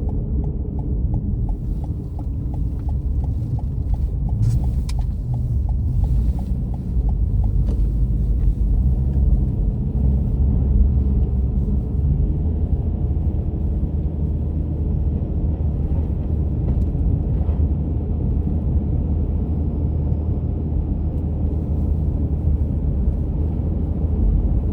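Steady low rumble of a car driving, heard from inside the cabin, with the turn-signal indicator ticking evenly for the first several seconds.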